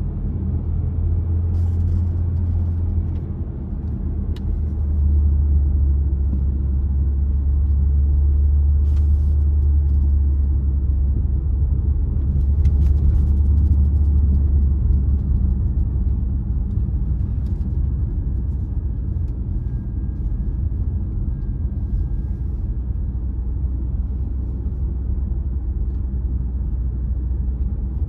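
A car driving along a road: a steady, deep rumble from the engine and tyres that grows louder about five seconds in, with a faint high whine and a few light ticks.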